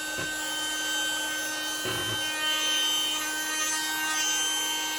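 Baseus C2 handheld desk vacuum cleaner running with a steady motor whine while its nozzle rubs across a surface, with a few small clicks.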